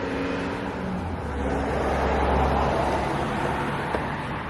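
A motor vehicle passing by: a low engine drone that swells to its loudest midway, drops slightly in pitch, and fades away.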